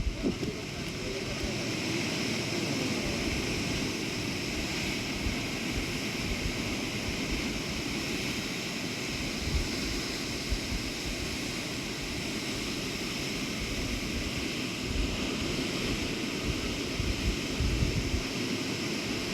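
Floodwater rushing steadily, with uneven low rumbles of wind buffeting the microphone.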